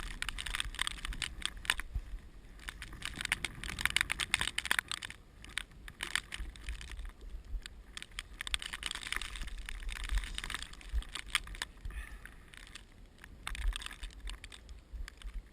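Fly reel clicking and ratcheting in irregular spells as a hooked trout is played, over wind gusting on the microphone.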